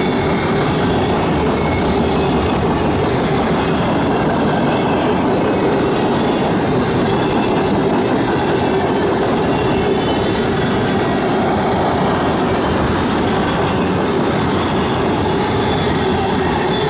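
A freight train's mixed cars (tank cars, gondolas and hoppers) rolling steadily past at close range, their wheels running on the rails, with a steady high tone running through the noise.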